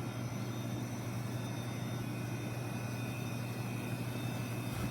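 A steady low mechanical hum over an even rushing background noise, with a faint high steady tone coming in about two seconds in.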